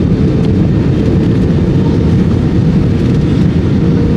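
Airbus A320 in flight heard from inside the cabin: a loud, steady rumble of engine and airflow noise, with a faint steady hum above it.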